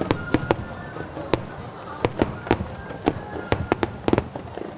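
Fireworks display: a quick, irregular string of sharp bangs, about a dozen in under five seconds, some coming in close pairs, over a continuous background of noise.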